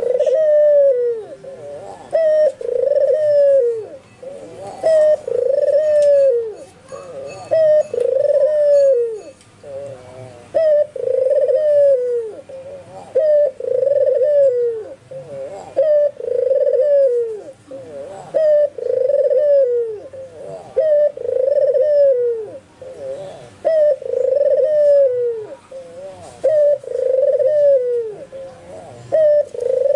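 White albino Barbary dove (puter putih) cooing over and over: each call a short note followed by a long arching coo, about one call every two and a half seconds. Faint high chirps of small birds lie behind.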